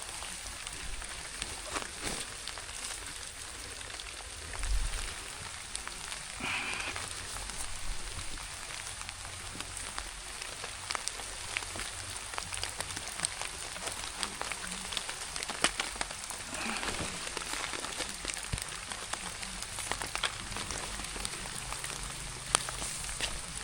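Steady rain falling, with many separate drops ticking sharply close by. Two brief swishing noises come about a third of the way in and again past two-thirds, and there is a dull low bump about five seconds in.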